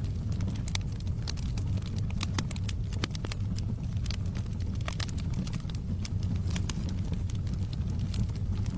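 Wood logs burning in a fireplace: a steady low rumble of the flames with irregular crackles and pops.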